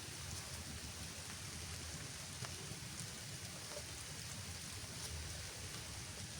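Steady rainfall with a few faint sharp drop taps and a low rumble underneath.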